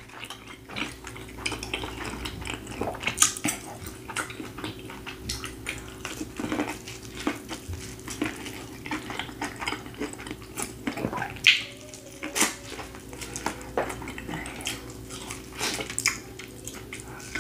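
Close-up chewing and biting of grilled corn on the cob: wet mouth sounds and many small crisp clicks as kernels are bitten off and chewed. A faint steady hum runs underneath.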